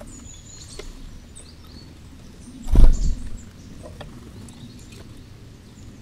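Faint clicks and rustling of a great tit at a feeding platform heaped with sunflower seeds, with a few short, high bird chirps. About three seconds in there is one loud, low thump.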